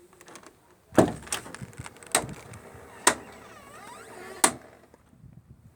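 A series of sharp knocks or bangs, five in about four seconds at uneven spacing.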